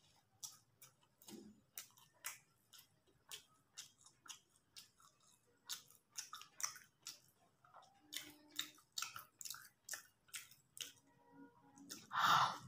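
Close-miked chewing of a mouthful of chow mein noodles: wet mouth clicks about two or three times a second. Near the end there is a louder, longer slurp as a fresh handful of noodles goes into the mouth.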